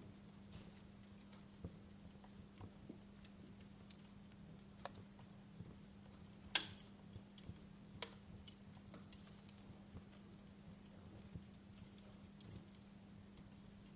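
Wood fire crackling in a fireplace: scattered, irregular pops and snaps, the loudest about six and a half seconds in, over a faint steady low hum.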